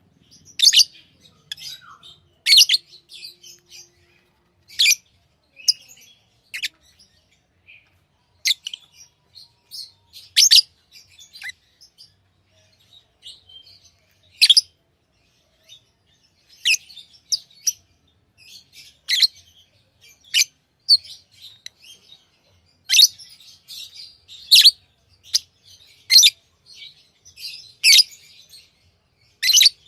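Pet lovebirds calling: sharp, high-pitched chirps at uneven intervals, roughly one every one to two seconds, with quieter chattering between them.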